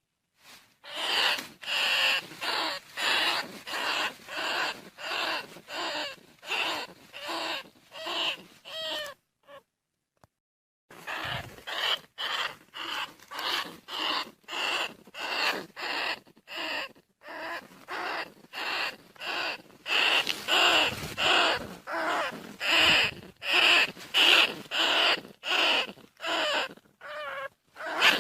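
Bandicoot rat calls: short, harsh squealing cries repeated about twice a second, with a pause of about two seconds partway through.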